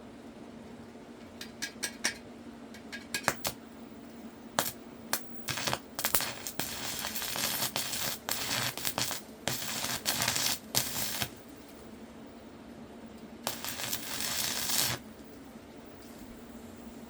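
Irregular metallic clinks and clatter, like utensils handled against metal, with a few seconds of scraping or rustling noise in between. A steady low hum runs underneath.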